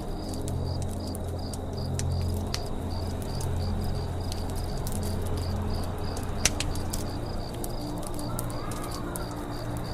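Campfire crackling, with scattered sharp pops, the loudest about six and a half seconds in. Behind it runs a low steady hum and an evenly repeating high insect chirp, with a short bird call near the end.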